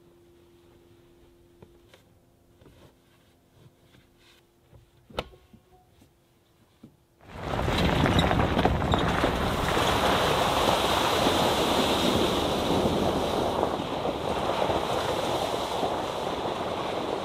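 Near-quiet with a few faint clicks, then about seven seconds in a sudden switch to a loud, steady outdoor rushing noise of wind and surf.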